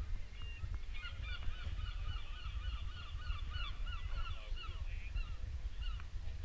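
A bird calling in a rapid run of short, repeated, slightly bending notes, about four a second, lasting some four seconds, over a steady low rumble.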